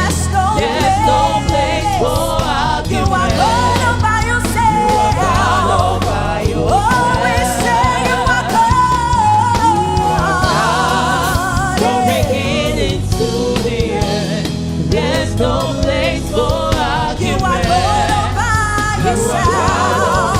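Gospel worship song: a voice sings long held notes with vibrato over a band with a steady bass line.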